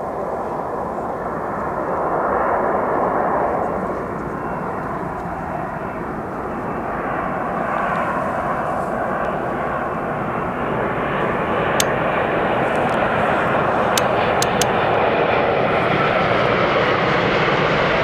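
Boeing 787 jet airliner's engines, a steady rushing roar that gradually grows louder, with a few sharp clicks about two-thirds of the way in.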